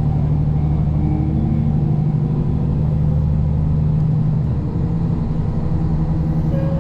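Diesel railcar running on the line, heard inside the car: a steady engine drone with a low hum and rail noise, easing a little about two-thirds of the way through.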